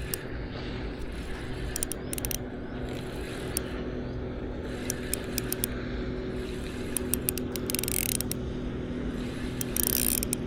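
Shimano Vanford 2000 spinning reel being wound in, its gears whirring steadily, with scattered ticks. Brief hissing bursts come around eight seconds in and again near the end.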